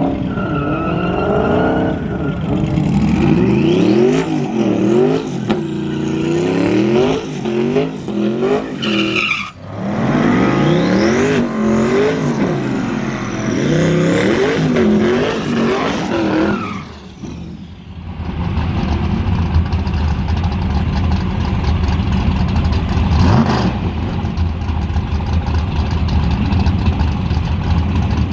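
Twin-turbo Dodge Demon V8 at high revs, its engine speed surging up and down over and over for about seventeen seconds, typical of the tyres breaking loose on an unprepped track, with a short break about nine seconds in. It then drops away to a steady low engine rumble.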